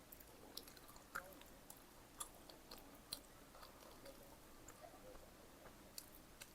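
Close-miked chewing of pizza: soft, irregular wet mouth clicks and smacks, with a few sharper clicks.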